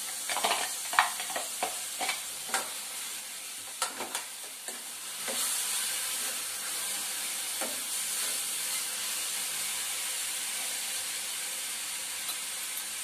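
Chopped tomato and onion frying in hot oil in a metal kadhai, sizzling steadily. A metal spoon scrapes and clicks against the pan over the first five seconds or so as the tomato is stirred in, then only the even sizzle goes on.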